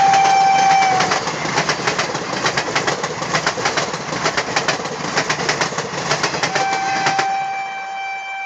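Indian Railways passenger train hauled by a WAP-4 electric locomotive passing close by: the locomotive's horn ends about a second in, then the wheels clatter over the rail joints in quick, rhythmic clicks over a steady rumble. The clatter stops suddenly near the end as a steady horn tone begins.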